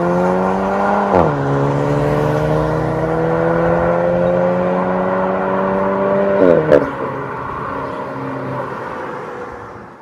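Škoda Octavia RS's turbocharged four-cylinder 2.0 TSI engine heard through a valved cat-back exhaust, accelerating through the gears. Its pitch climbs, drops at an upshift about a second in, then climbs steadily for several seconds. At the next shift, around six and a half seconds in, there are two sharp cracks, and the engine then settles lower and fades out near the end.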